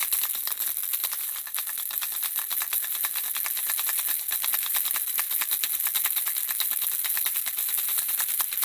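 Handheld baby rattle shaken continuously, the small objects inside clicking in a fast, dense, unbroken patter.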